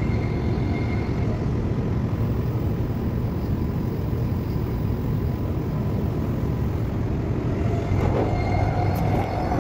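Steady low rumble of an electric suburban train running, heard from inside the passenger carriage. Near the end a faint whine starts and rises in pitch.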